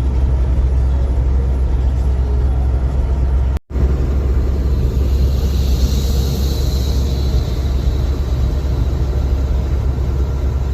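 Steady low drone of a truck's engine and road noise heard from inside the cab while driving. The sound cuts out for an instant about three and a half seconds in. A hiss swells and fades around six seconds in.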